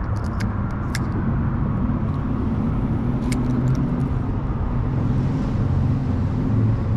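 Steady low rumble of road traffic, with a few sharp clicks.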